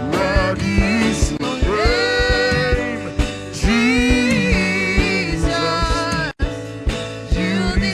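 Gospel worship music: a voice singing long, bending melodic lines over a band with a steady beat, with a brief dropout about six and a half seconds in.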